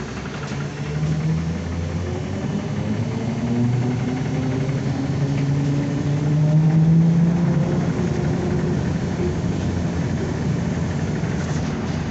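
Inside a ZiU-9 trolleybus on the move: its electric traction motor whines, rising in pitch for several seconds as the trolleybus picks up speed, then holding steady, over road and cabin rumble.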